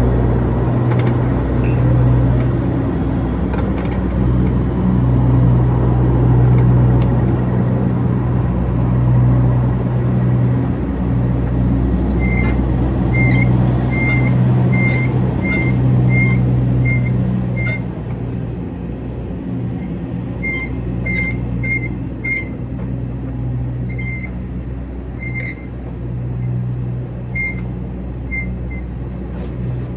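An engine idling steadily. From about twelve seconds in, a long run of short, high electronic beeps comes in at an uneven pace.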